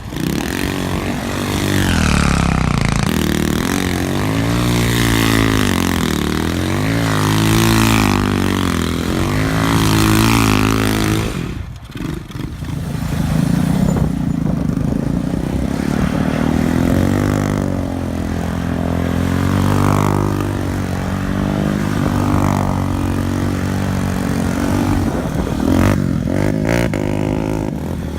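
Off-road quad or dirt bike engine revving up and falling back over and over, as it climbs through the revs and shifts, for about twelve seconds. After a brief dip it runs more steadily with slower swells in pitch.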